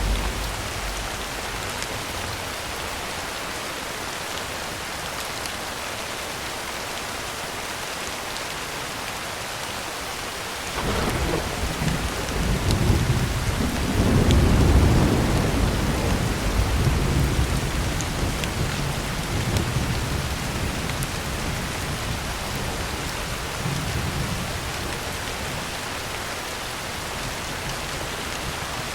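Heavy rain falling steadily on a tin roof. About eleven seconds in a roll of thunder breaks in, is loudest a few seconds later, then rumbles away over the next several seconds.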